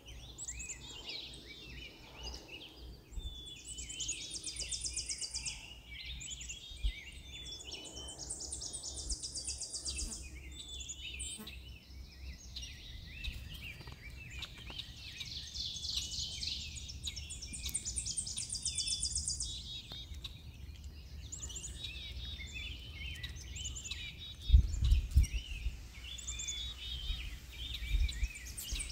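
Wild birds chirping outdoors, with several rapid trills of about two seconds each among the calls. A brief low rumble comes near the end.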